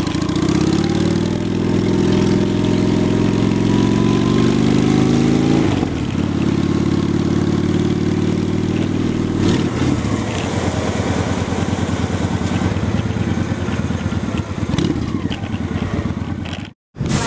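Honda Shadow Spirit 750 V-twin with aftermarket Cobra exhaust pipes under way, its engine note climbing as it accelerates, dropping at a gear change about six seconds in and changing again near ten seconds, then running steadily. The sound cuts out briefly just before the end.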